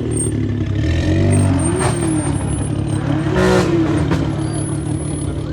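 Loud performance car exhausts at a car meet: a steady engine drone with two rev blips that rise and fall, about two seconds apart, each with a sharp crackle.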